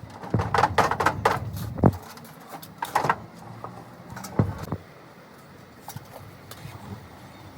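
Metal clanking and knocking: a quick run of clanks in the first two seconds, then single knocks about three and four and a half seconds in, over a faint low hum.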